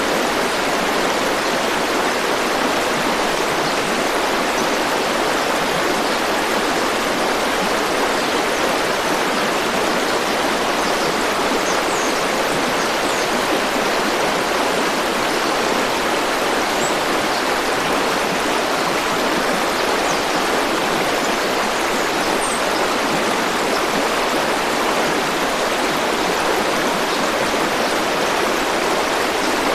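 River water flowing steadily, an even rush with no breaks. A few faint, short high chirps sound over it about halfway through.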